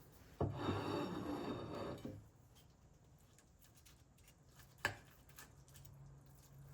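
Household handling noise: about two seconds of scraping, then a single sharp click a few seconds later over a faint low hum.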